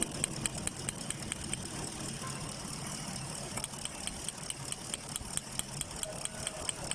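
Chevrolet Caprice V8 idling, with a quick, even ticking of an ignition coil's spark snapping across a spark tester. The spark tester is ticking steadily, so this bank 1 coil is firing again now that its broken ground wire has been repaired.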